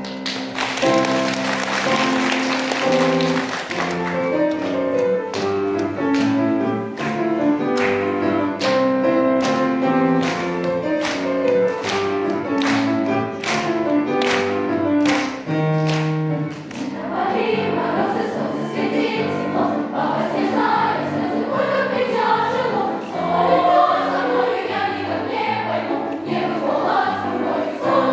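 Piano accompaniment with a bright hiss over the first few seconds, then a steady beat of about one and a half strokes a second. About two-thirds of the way in, a choir starts singing over the piano.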